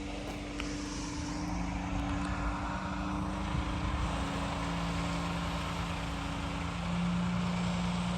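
An engine running steadily at a distance, a low two-note hum that shifts pitch slightly a couple of times.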